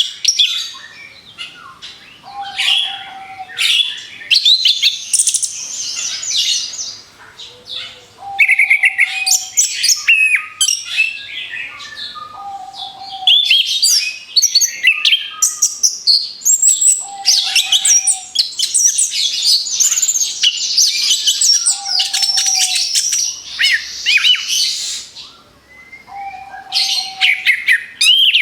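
Orange-headed thrush singing in rapid-fire runs of quick, high, varied chirps and trills, broken by short pauses. A short, steady, lower note recurs about every four to five seconds beneath the song.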